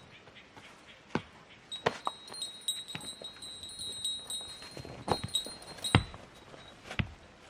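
High metallic ringing that keeps sounding through most of the stretch, broken by about five sharp knocks and clatter, the loudest about six seconds in.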